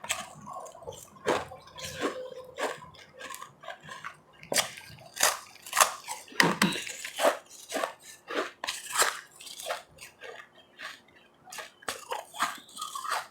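Ice being bitten and chewed close to the microphone: a run of irregular sharp crunches and crackles with short pauses between bites.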